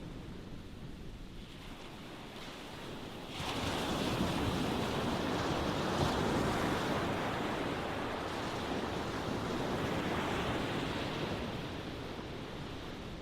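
Ocean waves washing in: a quieter wash, then a wave breaks sharply about three seconds in and its hissing rush slowly fades toward the end.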